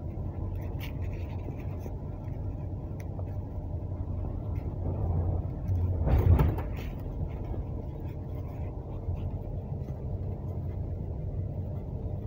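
Steady low rumble of a moving passenger train heard from inside the carriage, with a brief louder swell of noise a little past the middle.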